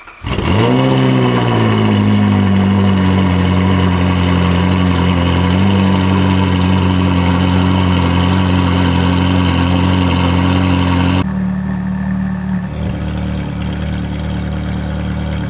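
Ferrari 458's 4.5-litre naturally aspirated V8, breathing through a titanium valved exhaust with free-flow bypass front pipes, cold-starts with a flare that settles within a couple of seconds into a steady fast idle. About eleven seconds in it drops to a quieter, duller idle.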